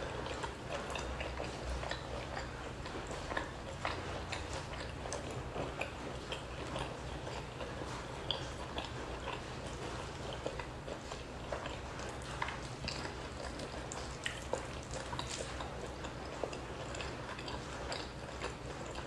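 Close-miked chewing and wet mouth sounds of someone eating a mouthful of rice by hand, with a steady run of small clicks and crackles.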